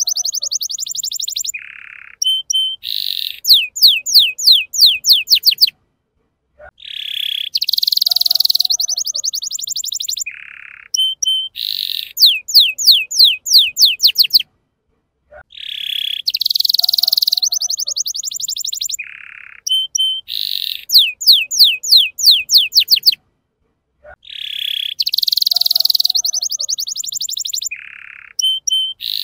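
Domestic canary singing, the same song phrase repeated about every eight seconds with short silences between: a buzzy high note, then a rapid run of falling whistles, about four a second. It is a lure recording, played to prompt young canaries to start singing.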